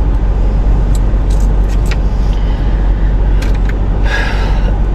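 Steady low rumble of a car's engine and air conditioning running, heard inside the cabin. Several light clicks and a brief rustle about four seconds in come from things being moved around.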